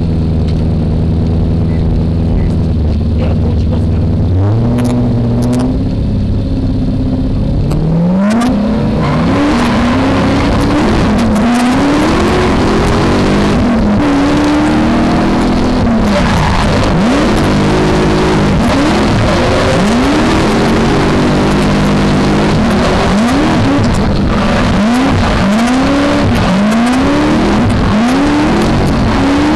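V8 engine of a BMW E30 drift car, holding steady at low revs for the first few seconds, then revving hard from about eight seconds in, its pitch sweeping up and falling back again and again as the car is driven through a drift.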